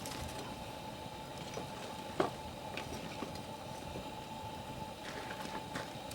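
Wood campfire burning: a steady hiss with scattered sharp crackles and pops, the loudest about two seconds in.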